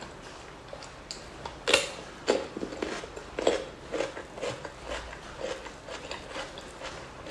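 Close-miked chewing with the mouth closed: a few sharp, crisp crunches about two seconds in, then steady rhythmic chewing about twice a second.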